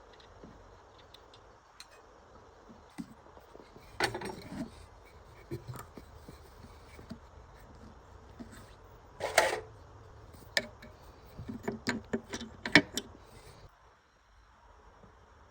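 Irregular clicks, knocks and clatters of small metal parts and hand tools being handled during a generator repair, with a louder clatter about two-thirds of the way in and a quick run of clicks just after it.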